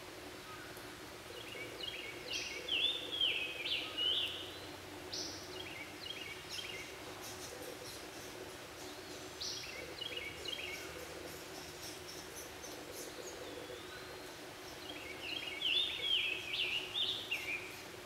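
Chattering bird calls in four short bouts of a second or three each, quick gliding notes, over a steady faint low hum.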